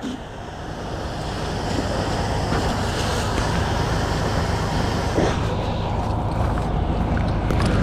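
Fire engine's diesel engine running under pump load, a steady low drone under a thick rushing noise that grows louder over the first couple of seconds and then holds.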